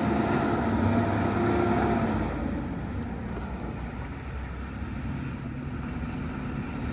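Heavy truck engine running with a steady whine, then easing off and dropping in level a little over two seconds in.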